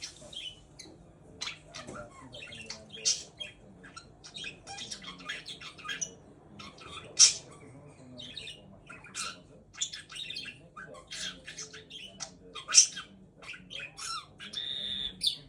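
Budgerigar chattering and warbling in a rapid, unbroken run of short, high squawky chirps, with a brief buzzy note near the end.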